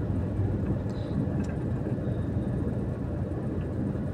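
Steady low rumble of a car's engine and running noise, heard from inside the cabin as the car creeps forward in slow traffic.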